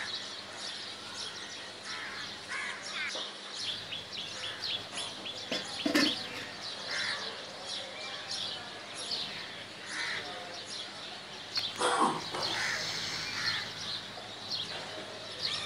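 Birds chirping repeatedly in short high calls, with two brief, louder knocks about six seconds apart.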